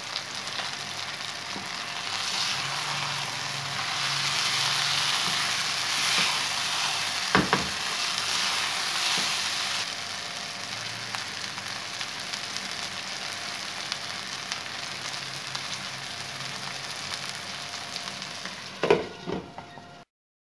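Chana daal and minced meat sizzling as they fry in a non-stick pan, with a spatula knocking against the pan about seven seconds in. A few clatters near the end as a glass lid is set on the pan, then the sound cuts off suddenly.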